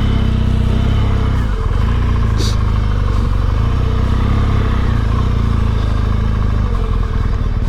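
Motorcycle engine running steadily at low speed, its note dipping briefly about a second and a half in, with a short click a second later.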